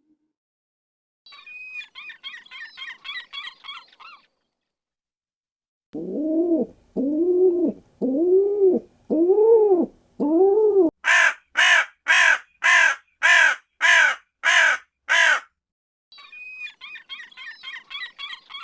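A run of separate animal calls. First comes a rapid, high twittering bird call. Then five low calls that each rise and fall in pitch, and then about ten harsh, raspy bird calls at a little over two a second, before the high twittering returns near the end.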